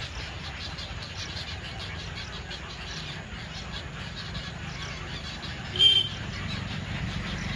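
Many birds at a nesting stork colony calling and chattering steadily, over a low rumble. One louder, sharp call stands out about six seconds in.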